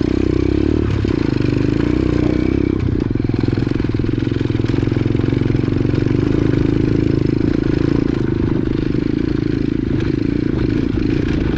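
125cc X-Pro pit bike's single-cylinder engine running at a fairly steady speed while being ridden on a dirt trail.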